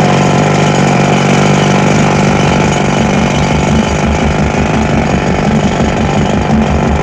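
Loud, steady, engine-like mechanical noise with a low hum. About three seconds in, a fast, even low thumping joins it.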